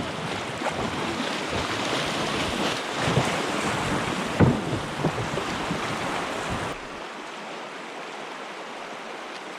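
Steady rushing of wind buffeting the microphone over flowing water, with a few light knocks, the loudest about halfway through. About two-thirds of the way in the rushing drops abruptly to a quieter, thinner hiss.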